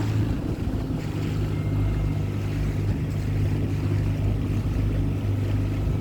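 Small hire boat's motor running steadily with a low hum, with wind buffeting the microphone.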